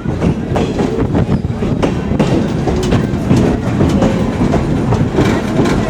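Train rolling along the track, its wheels clattering over the rail joints with a steady low rumble.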